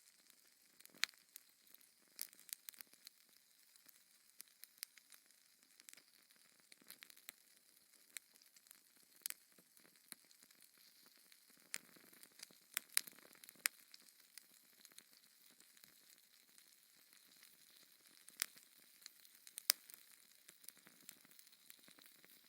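Fire in a fireplace crackling: scattered sharp pops and snaps at an uneven pace over a faint hiss, a few of them louder than the rest.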